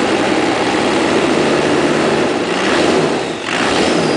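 1998 Dodge 2500's 12-valve Cummins inline-six turbo diesel being revved above idle, with the turbo spooling up. The revs swell about three seconds in, dip briefly, rise again with a rising whine, then drop back toward idle at the end.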